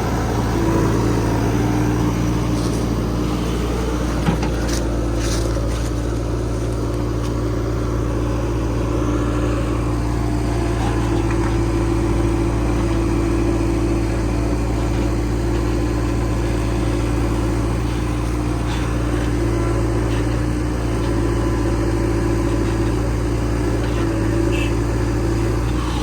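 Heavy-machinery diesel engine running steadily at a constant speed, with a few faint knocks about four to five seconds in.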